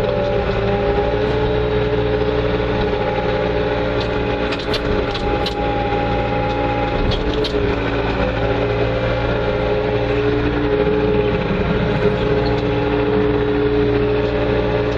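Bobcat 2410 articulated loader's engine running steadily, heard from inside the cab. Its pitch shifts slightly a couple of times, and there are a few sharp clicks or knocks around the middle.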